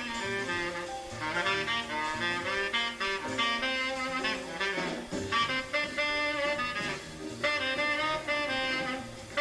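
Recorded small-group jazz: a tenor saxophone plays a quick line of many short notes over walking bass and drums.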